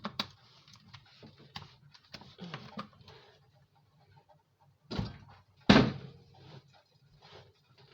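Kitchen handling sounds while cooking: scattered light clicks and clatter, then two louder knocks about five and six seconds in, over a faint steady low hum.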